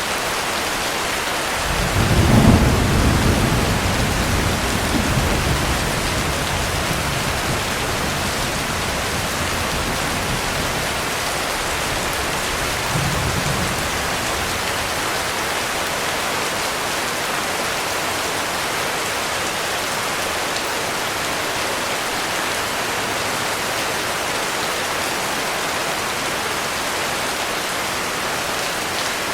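Heavy rain falling steadily. A rumble of thunder comes in about two seconds in and rolls on for several seconds, and a shorter, fainter rumble follows near the middle.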